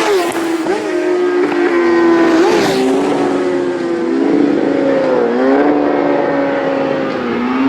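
Several road-racing motorcycles running at speed, their engine notes overlapping and dipping briefly at gear changes a few times.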